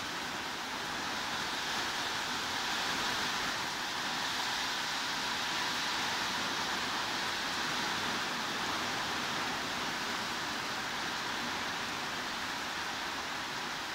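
Steady heavy rain: an even hiss with no separate drops or other events standing out, swelling slightly in loudness now and then.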